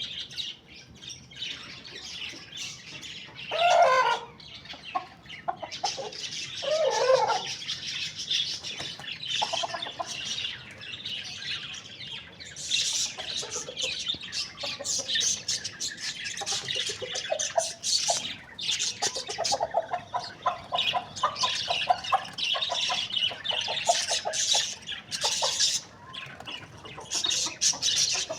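Chickens clucking and calling, with a few short, louder calls in the first several seconds, over dense high-pitched chirping that carries on for most of the time.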